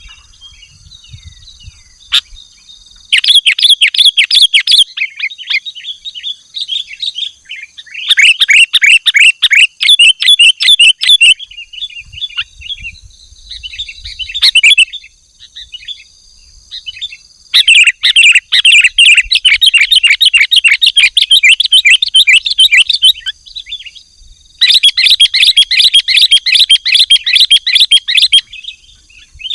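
Sooty-headed bulbul (kutilang) singing in loud bursts of rapid, excited chattering, four bursts of a few seconds each, with scattered short calls in between.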